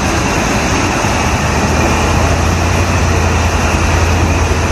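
Truck engine running steadily, a constant low hum under an even wash of noise.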